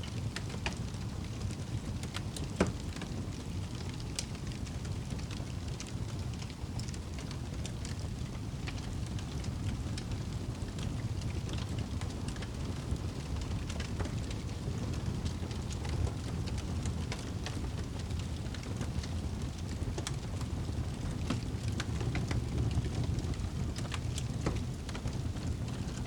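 Fire burning in a fireplace: a steady low rumble of flames with scattered crackles and pops, one sharper pop about two and a half seconds in.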